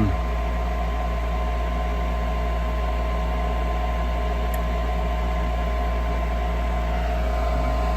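Gas furnace's draft inducer motor running with a steady hum during start-up.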